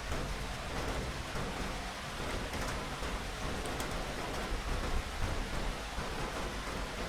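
Steady heavy rain falling, with a low thunder rumble underneath.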